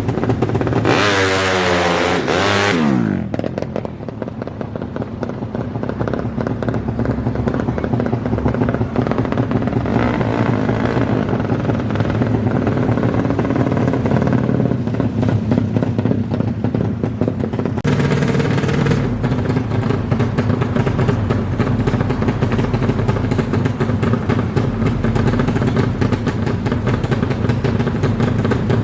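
DOHC racing motorcycle engines running hard. About a second in, one revs high and passes close, its pitch falling steeply as it goes by, followed by a steady mix of engine sound.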